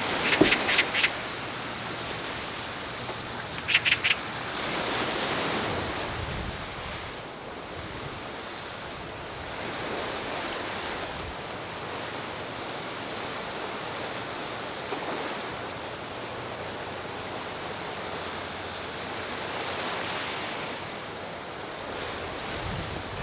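Sea waves washing onto the shore in steady wind, the surf swelling and easing every few seconds. A short run of sharp clicks comes just after the start and again about four seconds in.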